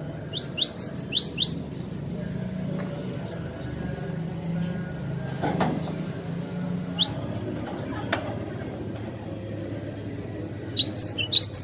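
Cinereous tit (glatik batu) singing: a quick run of about five sharp rising notes near the start, a single rising note about seven seconds in, and another fast run of notes near the end.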